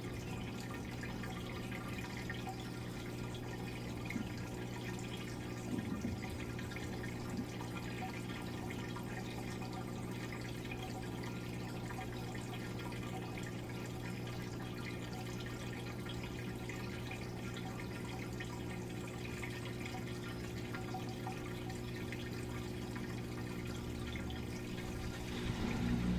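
Midea Wave-Agitator top-load washing machine running mid-cycle: a steady electrical hum with water trickling and dripping inside the tub. Near the end the hum grows louder and a higher tone joins it.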